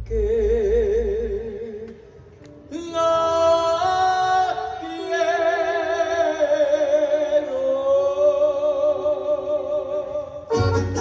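A mariachi-style singer holding long notes with wide vibrato over sparse backing, and the full band comes back in with a rhythmic strum near the end.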